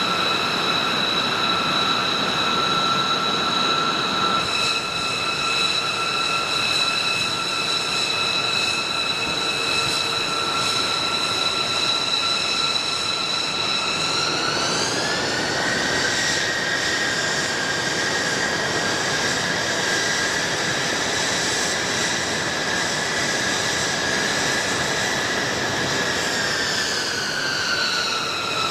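Turbofan engines of a B-2 Spirit bomber (four General Electric F118s) running with a steady high whine over a rushing noise. About fifteen seconds in the engines spool up and the whine rises in pitch; it holds there, then winds back down near the end as power is reduced.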